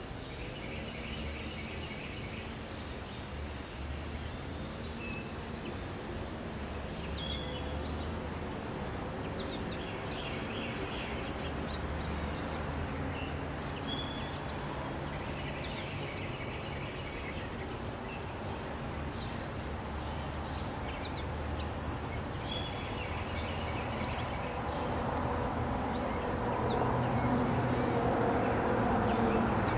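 Outdoor summer ambience: a steady high-pitched insect drone, with scattered short bird chirps and a low rumble that builds near the end.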